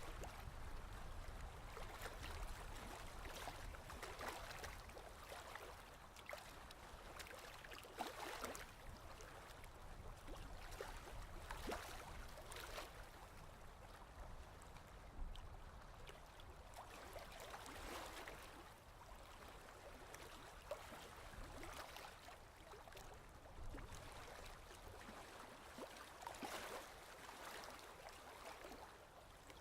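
Ocean waves washing in and out, faint, swelling and fading every four to five seconds.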